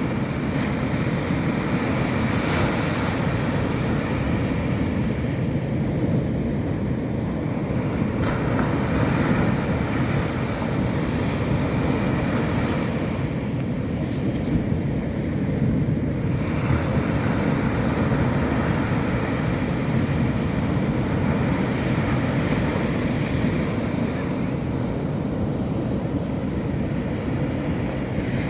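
Ocean surf breaking on a beach: a steady rush that swells and eases every several seconds as waves come in, with wind rumbling on the microphone underneath.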